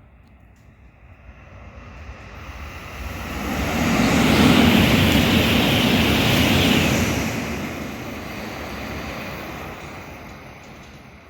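Sanyo Shinkansen bullet train passing through the station at high speed: a rushing roar of wind and rolling noise that builds over a couple of seconds, holds at its loudest for about three seconds, then fades away.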